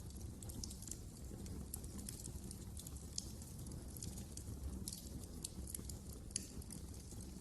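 Wood fire crackling: many small sharp pops at irregular intervals over a low, steady rumble of the flames.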